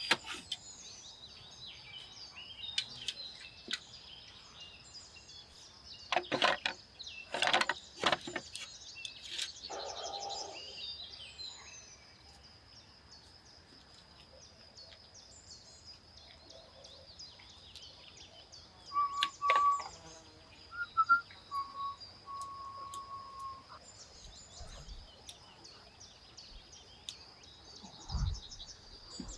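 Birds chirping over a steady high-pitched hum, broken by a few loud sharp clatters about six to eight seconds in and again around nineteen seconds.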